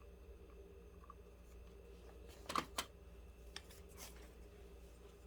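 Faint handling of craft materials on a tabletop: a few light clicks and rustles a little past halfway, then one more about a second later, over a low steady hum.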